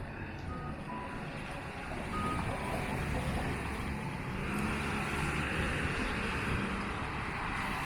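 Traffic on a wet city street: tyres hissing on the rain-soaked road, swelling after about two seconds as a vehicle passes. A few short electronic beeps sound in the first couple of seconds.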